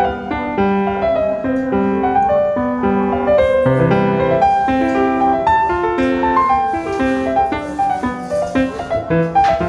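Piano music: a melody of short held notes over chords, at an even level.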